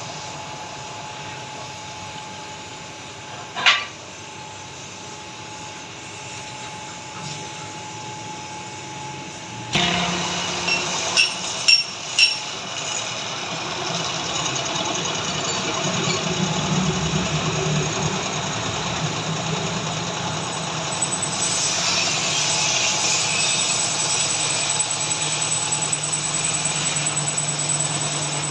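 A machine starts up about ten seconds in, with a few sharp clacks, and then runs steadily with a low hum under a noisy whirr. Before it starts there is only a low hum and a single knock.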